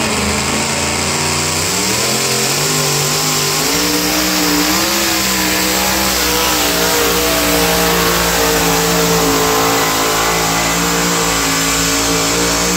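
Alcohol-fuelled two-wheel-drive pulling truck's engine at full throttle during a pull. Its pitch climbs over the first few seconds and then holds high and steady.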